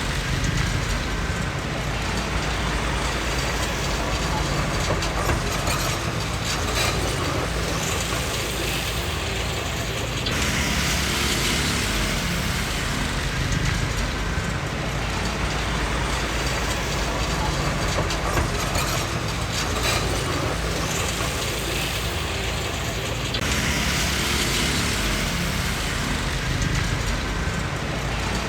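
Komatsu D20P crawler bulldozer at work: its diesel engine runs steadily with a constant metallic clanking and rattling from the steel tracks and running gear.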